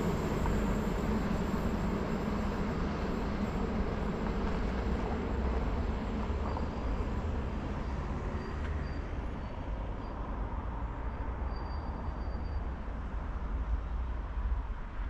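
Train rumble, a steady noise that slowly fades away, with a faint high whine for a few seconds in the middle.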